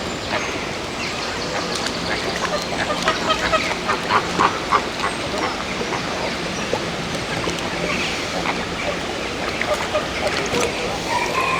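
Birds calling: a run of short, repeated calls, busiest a few seconds in, over a steady background hiss.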